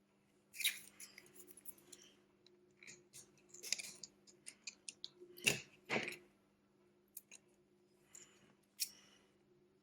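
Light clicks, taps and short scrapes of small repair tools and parts being handled on a smartphone, irregular and coming in little clusters, over a faint steady hum.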